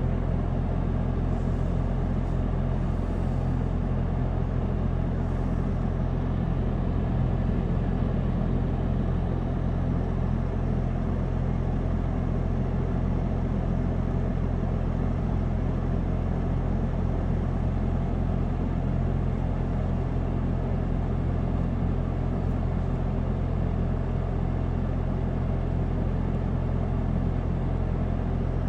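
John Deere 310C backhoe loader's diesel engine running steadily as a low, even drone.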